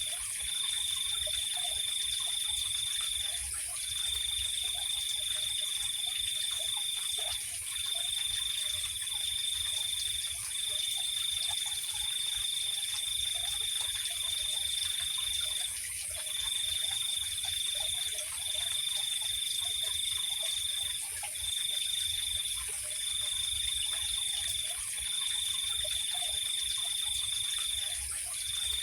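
Night insects trilling: a steady high-pitched drone under a high, even trill that runs in long stretches of one to four seconds, broken by short pauses.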